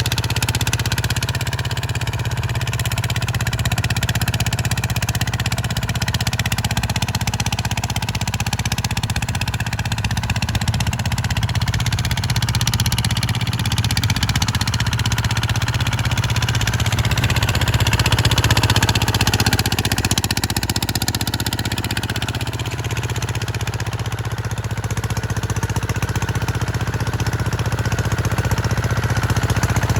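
Kubota RT140 single-cylinder diesel engine running steadily with a rapid knocking beat while the tractor pushes earth.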